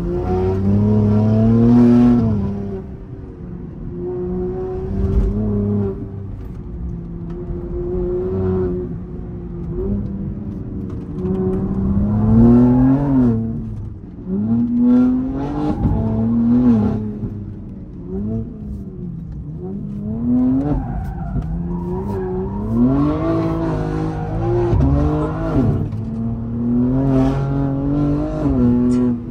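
BMW G80 M3's twin-turbo straight-six heard from inside the cabin. It accelerates hard and backs off again and again, its pitch climbing and dropping every couple of seconds through a run of bends.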